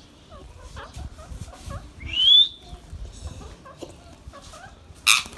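Indian ringneck parakeets calling: soft short chirps throughout, one loud rising call about two seconds in, and two loud harsh screeches near the end.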